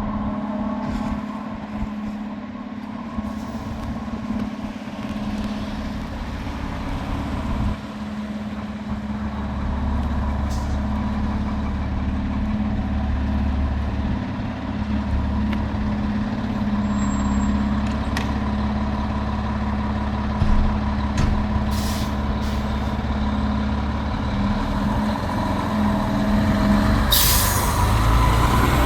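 Pierce Enforcer fire engine running, its low drone growing louder after several seconds, with a sharp air-brake hiss near the end.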